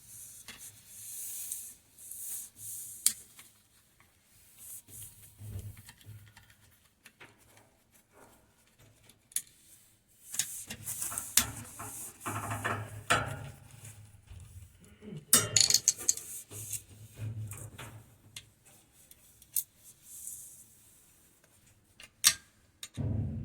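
Irregular metallic clinks, taps and scrapes of hand tools and metal parts being handled during a washing-machine repair.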